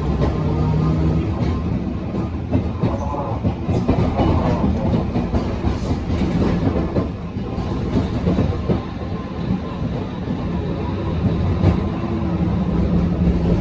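Tram running on rails, heard from on board: a steady low traction-motor hum with wheel-on-rail clatter and rattling, the clatter busiest in the middle.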